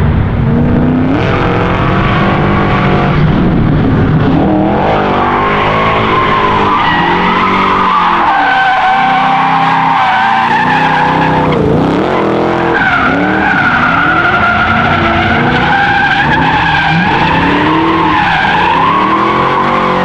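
A drift car sliding through the corners at speed, its tires squealing in a long, wavering screech while the engine revs rise and fall with the throttle.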